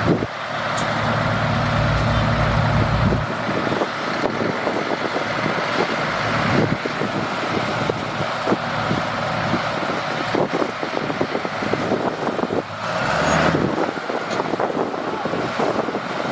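Heavy earthmoving machinery running. A steady low engine hum drops away about three seconds in, and dense mechanical rattling and small knocks continue throughout.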